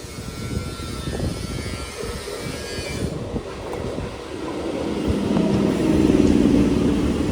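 Electric multiple-unit local train approaching on the line, its running noise growing steadily louder from about halfway through.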